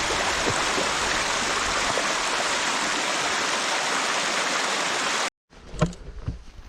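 Steady rushing of running water that cuts off abruptly about five seconds in, followed by a couple of footsteps.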